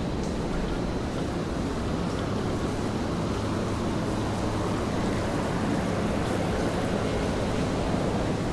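Steady wash of rain falling on a wet city street, with a low, even rumble of city traffic underneath.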